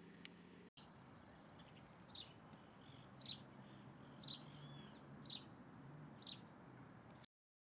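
A small bird calling: five short, high notes about a second apart, over faint background hiss.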